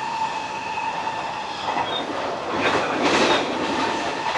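Hanshin 1000 series electric train running on the line, heard from inside, with a steady whine over the rumble of the wheels on the rails. About two and a half seconds in, a louder rushing noise swells for about a second and then fades.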